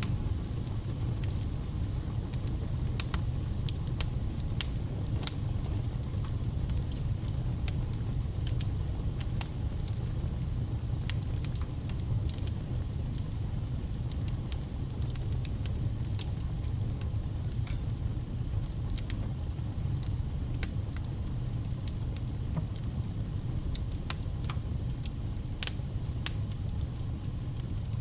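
Wood fire burning, with a steady low rumble and irregular sharp crackles and pops from the burning logs.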